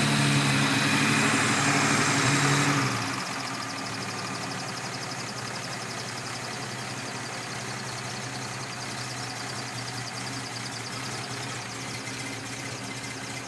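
Unimog 404's Mercedes M180 inline-six petrol engine running. It is louder for about the first three seconds, then settles to a quieter, steady idle.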